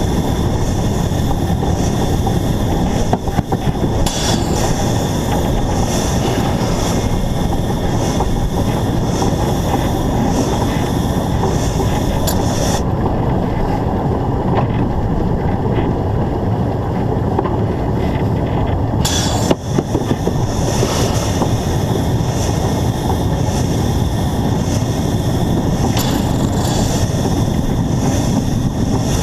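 Narrow-gauge steam locomotive running along the line, heard close up from on the locomotive: a loud, steady mix of running gear, wheels on rail and steam. Midway the hissing upper part of the noise drops away for about six seconds, then returns.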